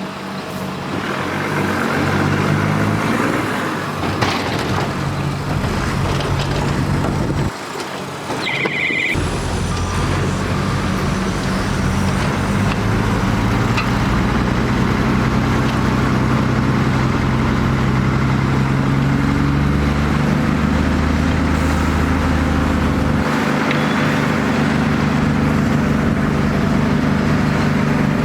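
Heavy diesel engines of earthmoving machinery running under load, the engine pitch shifting as the work goes on. A brief high tone sounds about eight and a half seconds in.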